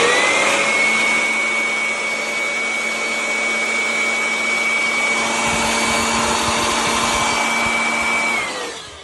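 Electric air blower running, a rush of air with a steady high whine that rises as it spins up; about eight seconds in it is switched off and the whine falls away.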